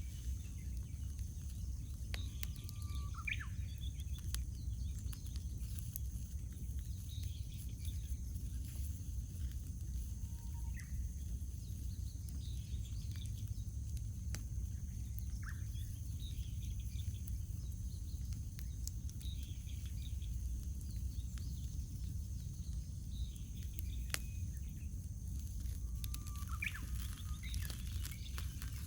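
Wood campfire crackling with scattered small pops over a low steady rumble, while birds call a few times with short chirps.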